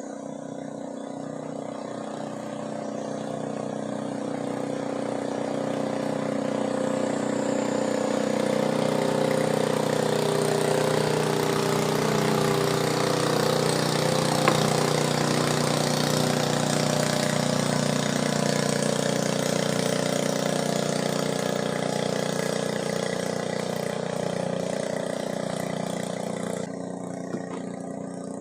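A motor engine passing by, growing louder over about ten seconds, holding steady, then fading away near the end.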